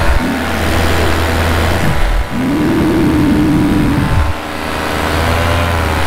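Minari F1 paramotor engine running steadily in flight, a constant drone with a slight change in revs near the end.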